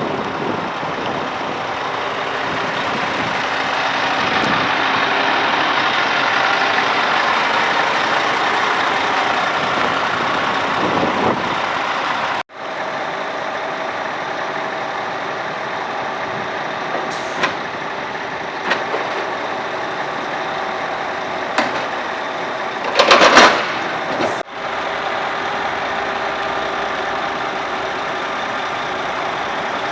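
Scania R490 truck's diesel engine running steadily, with two abrupt cuts in the sound and a brief loud hiss shortly before the second cut.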